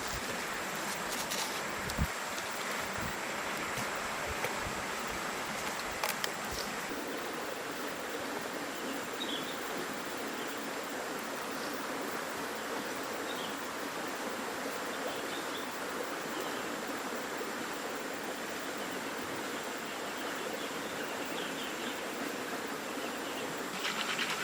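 Steady rushing noise of running water, with a few light knocks in the first several seconds.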